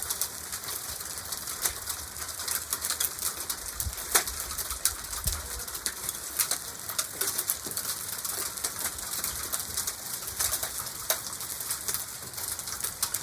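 Nickel-sized hailstones pelting the roof and surroundings: a dense, irregular clatter of sharp ticks over a steady hiss. The hail is heavy enough to be damaging the roof.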